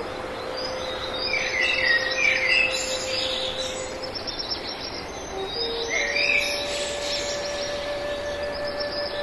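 Birds chirping in quick repeated phrases, over a long, steady held note that sounds twice, the second starting about six seconds in.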